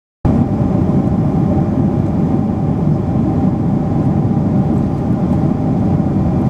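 Loud, steady jet airliner engine noise with a few faint steady tones in it. It starts abruptly just after the beginning.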